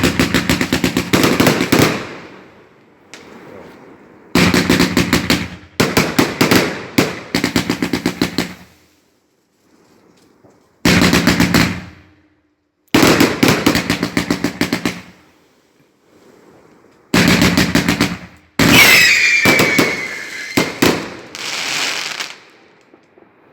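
Fireworks going off in about seven volleys of rapid-fire bangs, each a second or two long with short gaps between. Several whistles fall in pitch during the second-to-last volley.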